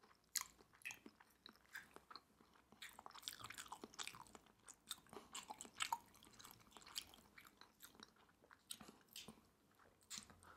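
Faint, close-miked chewing of soft, chewy Korean rice cakes (tteokbokki) in sauce: irregular small mouth clicks and smacks.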